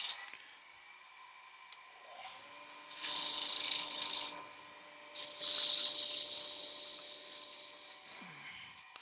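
Sandpaper held against the outer edge of a wooden bird feeder spinning on a wood lathe, a dry hiss in two passes: a short one about three seconds in and a longer one from midway that fades away near the end. The lathe's motor hums steadily underneath.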